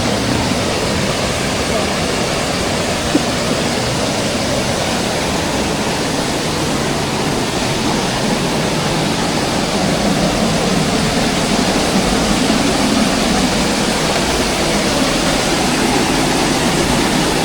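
Steady rushing of a waterfall and mountain river, a little louder for the last few seconds.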